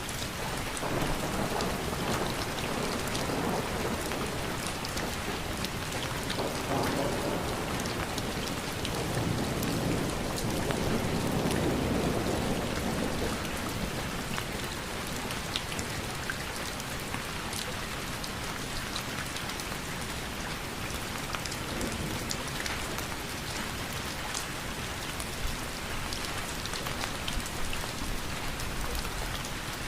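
Steady rain falling, a dense hiss with fine ticks of individual drops. A low rumble of thunder swells and fades about ten to thirteen seconds in.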